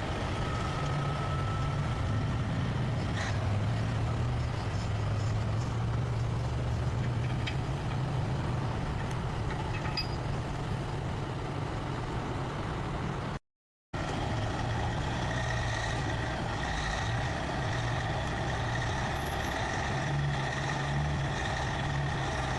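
Heavy truck engine running steadily, in two stretches broken by a sudden half-second dropout about two-thirds of the way through. A faint steady high whine runs under the engine in the second stretch.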